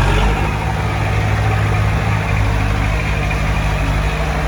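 Heavy diesel engine of earthmoving equipment running steadily at an even speed.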